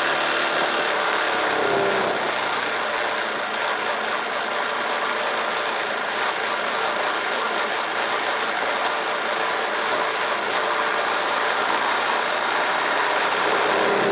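KTM RC 390 single-cylinder motorcycle engine at low revs with a steady mechanical clatter, under an even hiss.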